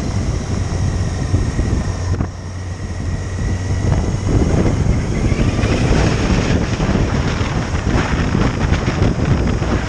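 Motorcycle engine running while riding, with heavy wind buffeting the microphone. The sound dips briefly a little over two seconds in, then grows louder and gustier.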